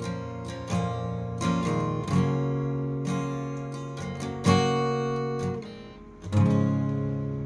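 Acoustic guitar strumming chords in a closing instrumental passage. A last chord is struck about six seconds in and left to ring out.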